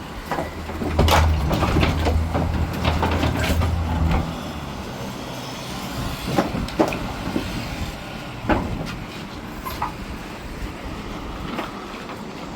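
A vehicle engine runs low and steady for a few seconds, with scattered sharp knocks and clatters throughout.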